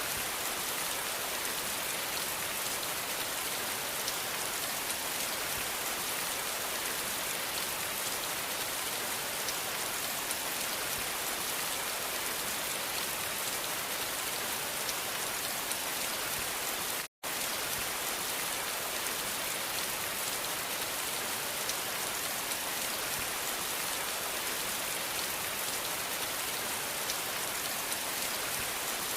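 Steady rain falling, an even hiss strongest in the high frequencies. It cuts out completely for a split second a little past the middle, then carries on unchanged.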